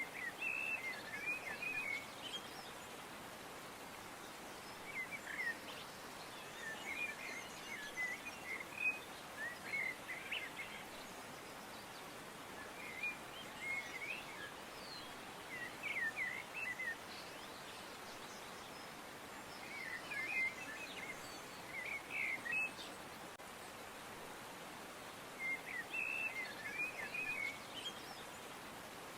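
Birds chirping in short bursts of quick twittering notes, a burst every few seconds, over a steady background hiss.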